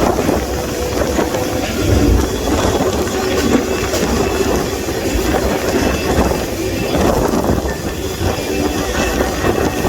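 Freight train rolling along, heard from aboard: a loud steady rumble and rattle of the cars, with faint thin wheel tones above it.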